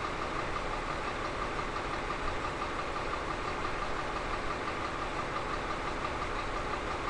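Caterpillar 3508B twin-turbo V8 diesel engine running steadily on a dynamometer, with an even pitch and level and no change in speed.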